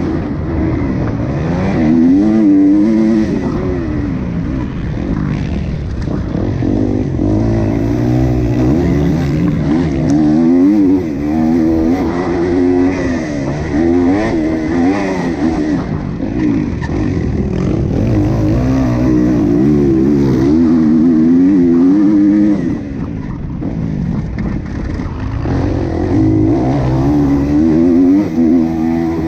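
Motocross bike engine revving hard through the gears under race throttle, its pitch climbing and falling over and over as the rider accelerates, shifts and backs off.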